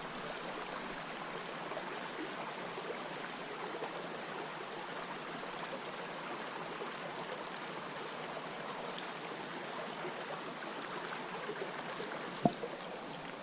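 Creek water running steadily over rocks, an even rushing hiss. A single sharp click near the end.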